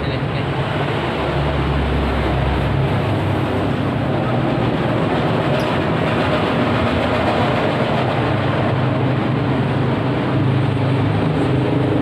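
Steady, loud mechanical rumble with a low hum throughout, the kind of noise a running engine or passing traffic makes.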